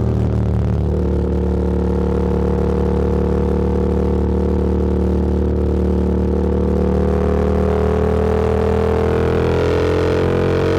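Motorcycle engine running steadily while riding, heard from the rider's position, its pitch rising over the last few seconds as the bike accelerates.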